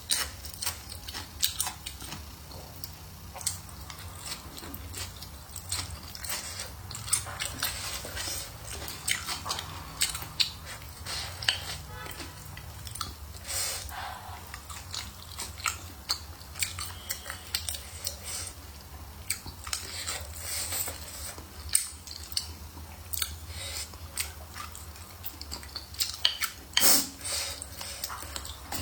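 Close-miked eating sounds: a person chewing and biting food, with many small wet clicks and crunches and an occasional clink of utensils against a bowl.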